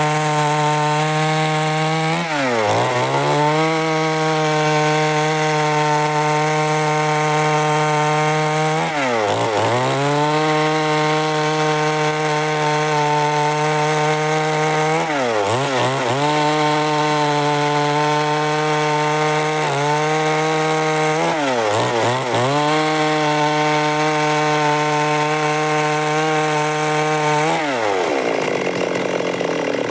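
Stihl MS 382 two-stroke chainsaw running at full throttle while sawing wood lengthwise. Its engine note dips sharply and recovers about every six seconds, five times in all, and turns unsteady near the end.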